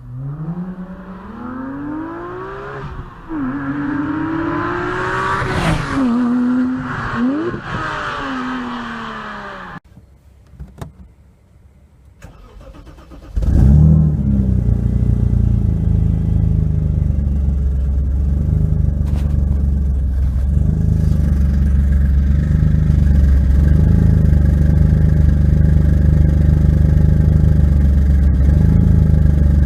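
BMW 535 E34's inline-six through a straight-through exhaust, revved up and down several times. After a short quieter gap with a few clicks, it comes back in suddenly and loudly about halfway through and runs steadily at low revs.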